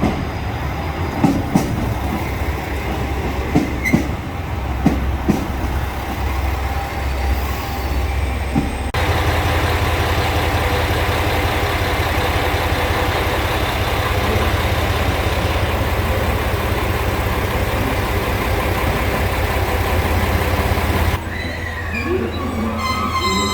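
HOT7000-series diesel railcar running, its engine and wheels on the rails heard together, with a few sharp knocks over the first nine seconds. About nine seconds in the sound jumps to a louder, steadier run, and it changes abruptly again about 21 seconds in.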